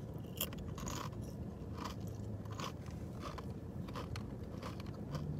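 A person chewing a crunchy snack: a run of crisp crunches, about one to two a second.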